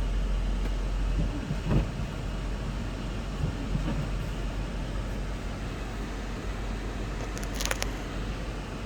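Steady low rumble of the Lexus GX 470's 4.7-litre V8 idling, heard inside the cabin. There is a soft thump about two seconds in and a quick run of sharp clicks near the end.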